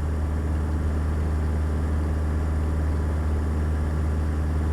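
Beechcraft Sundowner's four-cylinder Lycoming O-360 engine and propeller droning steadily in cruise flight, heard from inside the cabin as a constant low drone.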